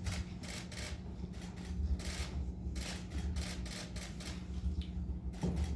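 Press photographers' camera shutters clicking, some singly and some in quick bursts, over a faint steady low hum.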